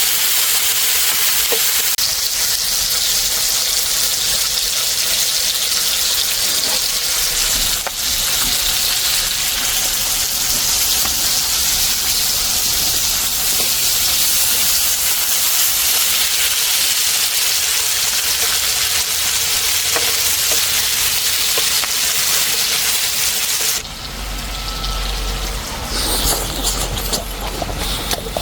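Hanwoo beef striploin steak sizzling as it cooks, a loud steady sizzle that drops away suddenly about 24 seconds in.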